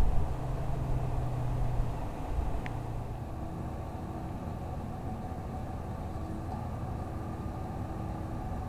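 Car engine idling, a steady low rumble with a faint steady hum.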